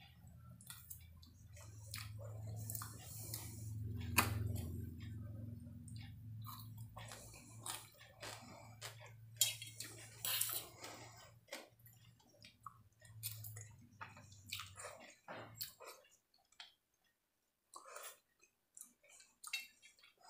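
Close-miked chewing and mouth sounds of a man eating noodles, fried rice and chilli chicken, with occasional clicks of a fork on a steel plate. A low steady hum sits underneath and stops about three-quarters of the way through.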